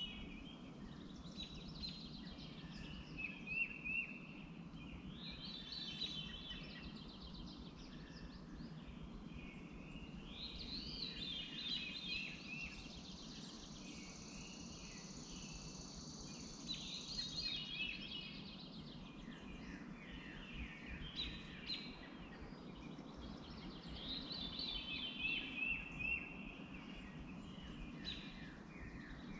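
Songbirds singing, with short chirping phrases repeating every few seconds over a steady low hum. Midway through, a thin high tone holds for about five seconds.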